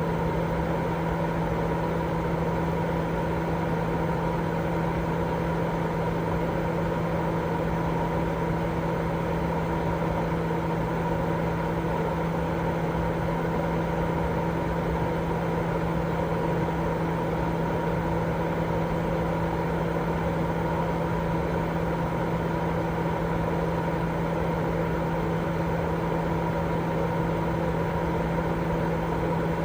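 Continuous baby-sleep white noise: a steady, unchanging rumbling hiss with a low hum running through it.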